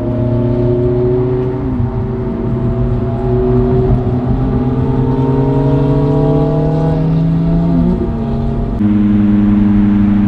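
Ferrari 458 Italia's V8 heard from inside the cabin, pulling steadily up through the gears: the engine note climbs slowly and drops sharply at an upshift about two seconds in and again near eight seconds. Near the end it gives way abruptly to a steady, even engine drone at constant speed.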